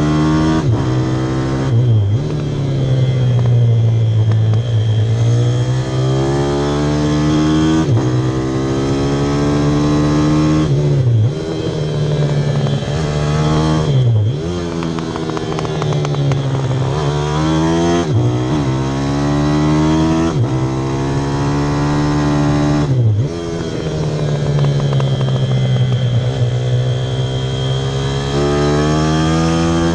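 Single-cylinder pit bike engine ridden hard on track, its pitch climbing as it revs and then dropping sharply several times as the throttle is shut or a gear is changed, before rising again.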